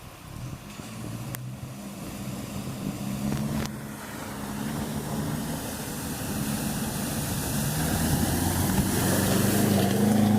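A racing vehicle's engine approaching and growing steadily louder, its pitch rising near the end, with a hiss that swells as it nears.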